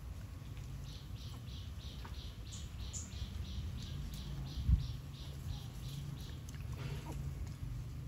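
A bird chirping in a steady run of short, high chirps, about three a second, that stops after about six seconds. A low handling rumble sits underneath, with a single thump about halfway through.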